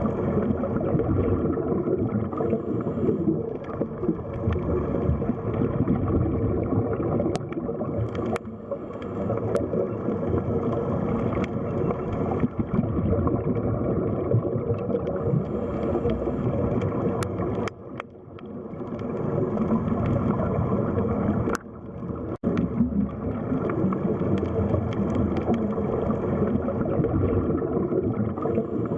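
Underwater sea ambience: a steady, muffled rush of moving water with gurgling, dipping briefly twice in the second half.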